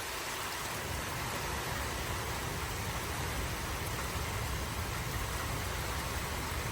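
Heavy rain pouring down in a severe thunderstorm: a steady, even hiss.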